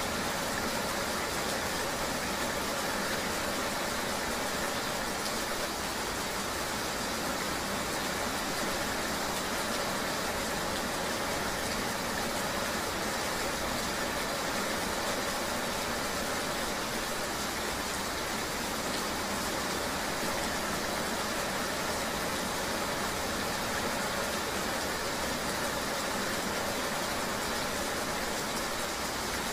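Steady, even wash of rain and road-traffic noise, with no separate events standing out.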